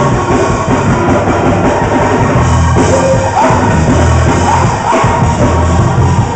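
Live church band playing loud, up-tempo praise-break music, with voices singing over it.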